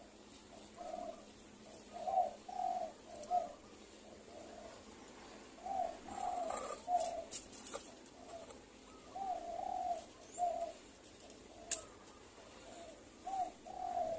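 Spotted dove cooing: phrases of three or four low notes, repeated every few seconds. A sharp click sounds near the end.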